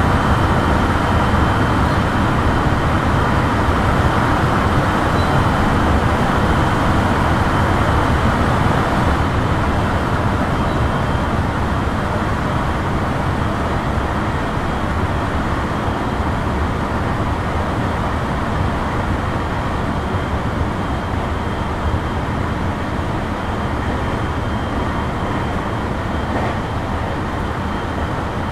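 Onboard running sound of a JR West 223 series 2000 electric multiple unit travelling at speed between stations: a steady, loud rumble and rush of wheels on rail, with a faint steady high tone above it.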